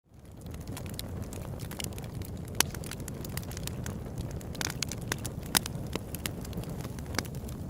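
Open-air campfire burning, crackling with frequent sharp pops over a steady low rush. It fades in from silence at the very start.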